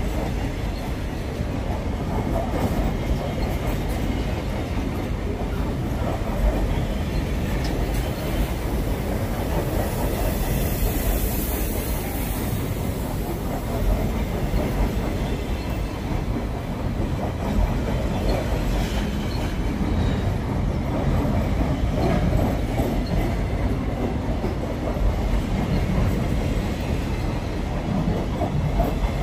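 Container train's loaded flat wagons rolling past: the steady rumble and clatter of steel wheels on the rails.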